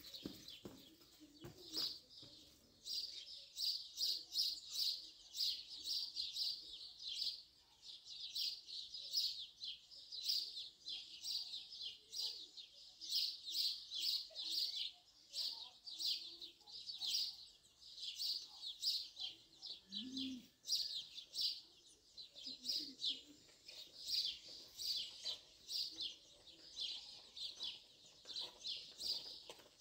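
Small birds chirping in a steady run of quick, high notes, several a second, with one brief low call about two-thirds of the way through.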